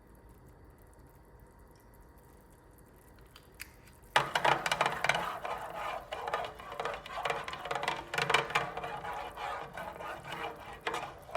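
A utensil stirring sauce in a pot, with quick, uneven clicking and scraping against the pot, starting abruptly about four seconds in after a near-silent stretch.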